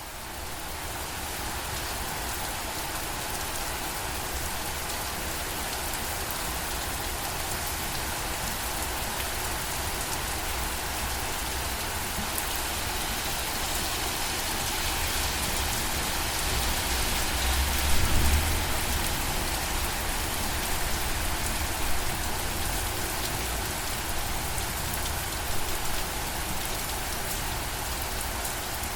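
Steady rain falling, rising in level just as it begins, with a brief louder low rumble about two-thirds of the way through.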